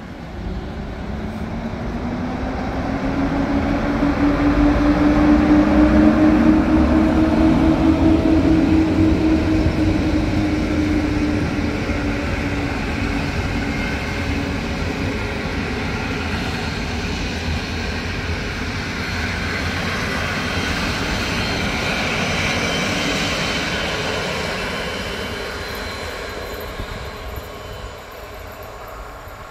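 A passenger train hauled by an EU07 electric locomotive passing close by, the steady rumble and rush of its wheels on the rails. A low hum swells and fades as the locomotive goes by in the first few seconds. The coaches follow, and the noise fades near the end as the train pulls away.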